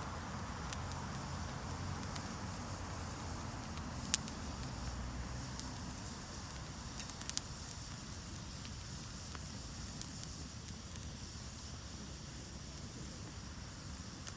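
Wood campfire burning with a steady low hiss and scattered crackles, a sharp pop about four seconds in and a quick pair of pops a few seconds later.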